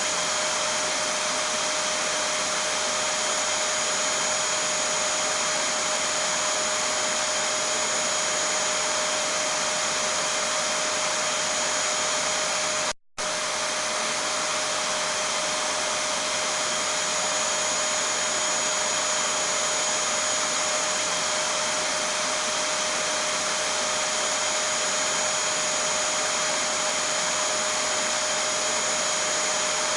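Vacuum cleaner running steadily, a constant rushing sound with a steady high whine. The sound drops out for a split second about thirteen seconds in.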